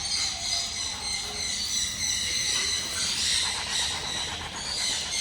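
Insects keeping up a steady high-pitched shrill chorus, with faint voices behind.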